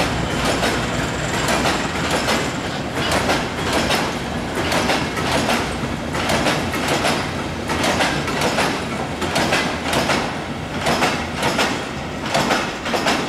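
Train passing close by, its wheels clattering over rail joints in a steady clickety-clack. A faint high whine fades out about halfway through.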